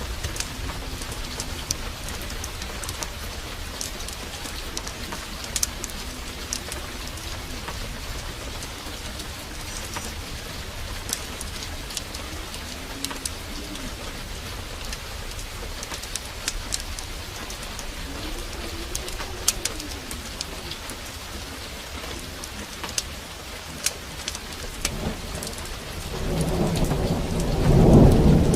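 Steady heavy rain with frequent sharp crackles of a wood fire in a fireplace. A loud, low thunder rumble rolls in during the last few seconds.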